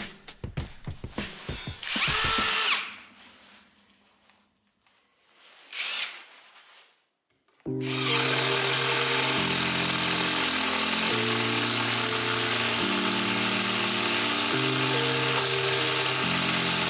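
Parkside Performance PDSSAP 20-Li A1 cordless impact driver run in two short bursts, about two seconds in and again near six seconds. From about eight seconds in, steady background music with held notes that change pitch in steps.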